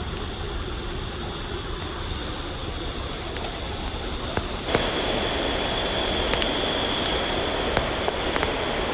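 Steady rushing of river water with a faint, steady high whine above it; the sound gets louder about halfway through, with a few faint sharp ticks.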